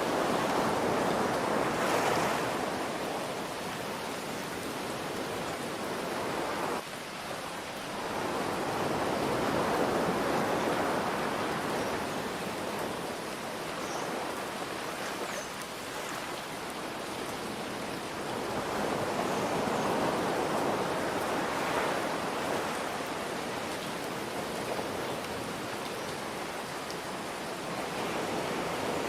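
Ocean waves breaking and washing in, swelling and fading about every ten seconds, over a steady hiss of rain.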